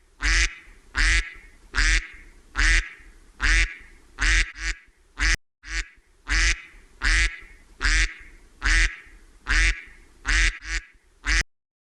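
Duck quacking in a steady series of loud calls, roughly one a second with a few coming in quick pairs, stopping near the end.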